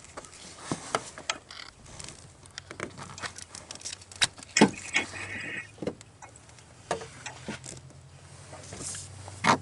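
Scattered metallic clicks and knocks as a compression tester's pressure gauge is coupled to its hose threaded into the spark plug hole, with the sharpest knock about halfway through.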